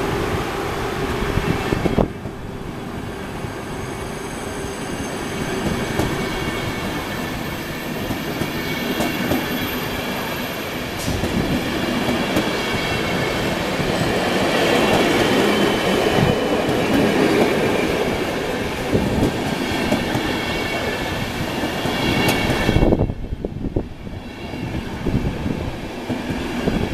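PKP Intercity passenger coaches rolling past, wheels clattering with high squealing tones over the rumble. The sound drops away sharply near the end as the last coach goes by.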